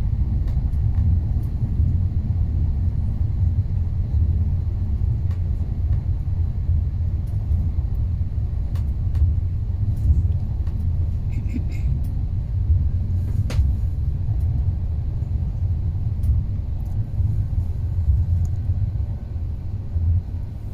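Steady low rumble of a moving passenger train, heard from inside the carriage, with a few faint clicks.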